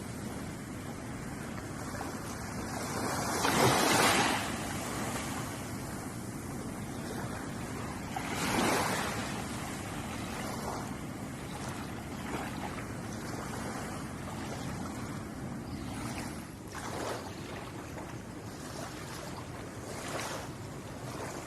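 Ocean waves washing onto a shore, a steady rush of surf. The loudest wave breaks about four seconds in, another near nine seconds, and smaller ones come later.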